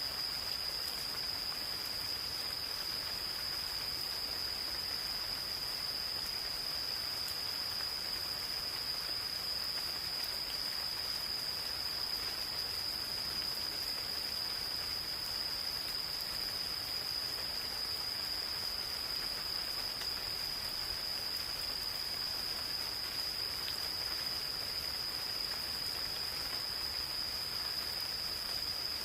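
Insects singing in one steady, unbroken high-pitched trill, over the soft even patter of light rain on forest leaves.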